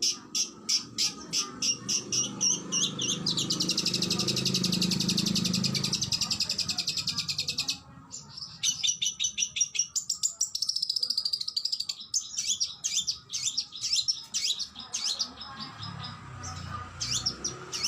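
Oriental magpie-robin (kacer) singing: rapid repeated sharp chips, then a continuous buzzy rattling trill lasting about four seconds, then a run of varied whistled notes and sharp downslurred calls.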